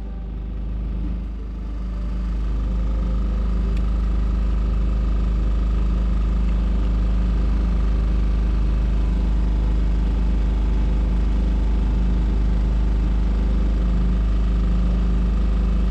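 The motor of a Hurley 20 sailboat running steadily, driving the boat under power rather than sail. It dips in level briefly at the start, then holds an even drone.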